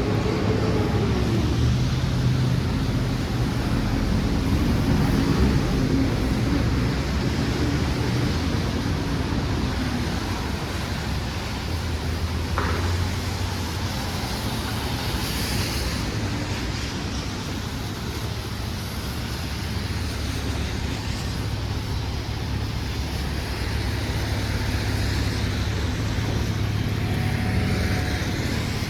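City street traffic: a steady wash of engines and tyre noise from passing cars, with one vehicle's engine pitch sweeping up and back down in the first few seconds.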